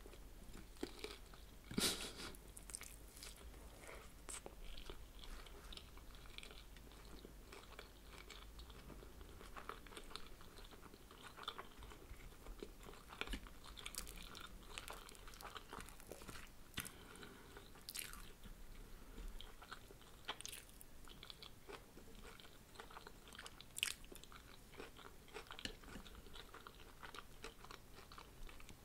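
Close-miked chewing and wet mouth sounds of someone eating fried spring roll, with many small crisp crunches and clicks scattered through; a sharper click comes about two seconds in and another near the end.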